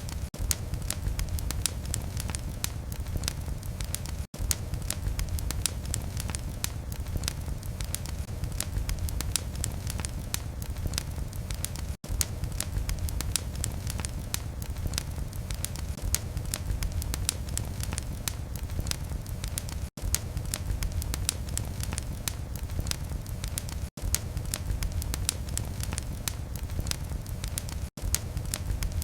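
Wood fire in a fireplace crackling steadily, dense small snaps over a low rumble. The sound cuts out for an instant five times.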